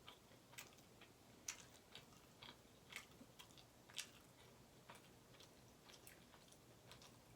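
Faint mouth sounds of a person chewing food: soft, irregular wet clicks and smacks every half second or so.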